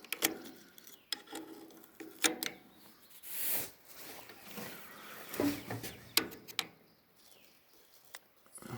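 Hand work on a baler's knotter: scattered clicks and knocks of metal parts and a brief rasping rub about three and a half seconds in, as tangled twine is worked off the knotter arm.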